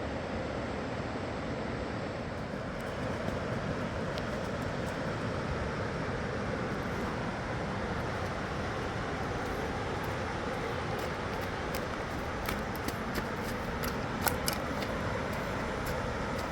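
Steady rushing noise of a fast-flowing river, with a few sharp clicks in the last few seconds.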